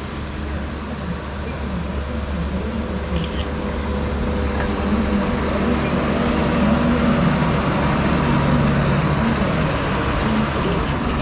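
Small diesel train of a narrow-gauge forest railway running, a steady engine hum and rumble growing gradually louder, with a few light clacks about three seconds in and near the end.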